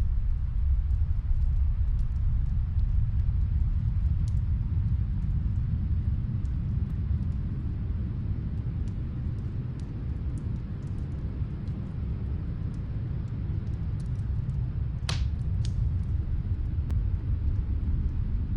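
Steady low snowstorm wind, swelling and easing slowly, with faint scattered crackles of a wood fire and one sharper pop about fifteen seconds in.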